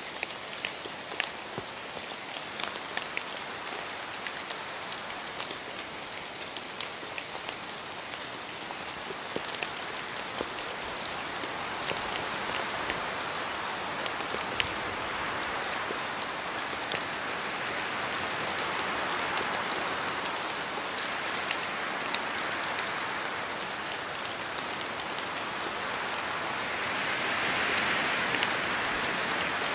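Steady rain falling in a forest, with a dense patter of separate drops and a rushing of wind that swells at times, most strongly near the end.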